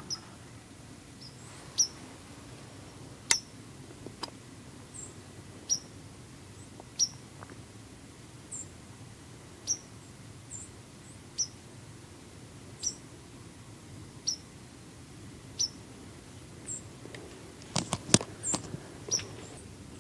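A small bird's sharp, high chip notes, repeated about every second and a half over faint outdoor hiss, with a quick cluster of clicks near the end.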